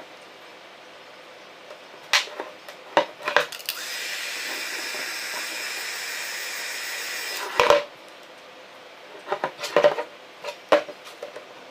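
Clicks and taps of hands working on a small plastic drone body, with a steady hiss for about four seconds in the middle.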